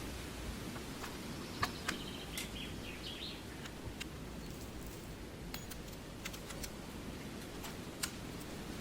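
A bird chirps briefly a couple of seconds in over a steady low rumble of background noise. A few sharp clicks stand out, the loudest just before the chirps and again near the end.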